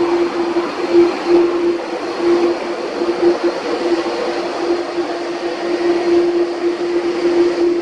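Steady, loud jet engine noise from the Cathay Pacific Cargo Boeing 747-400ER freighter at the airport, a broad, even rush with a steady hum running under it.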